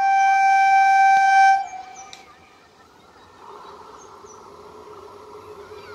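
Indian Railways EMU local train's horn sounding one steady blast of about a second and a half. The approaching electric multiple unit's running noise then comes in as a steady hum that grows slowly louder.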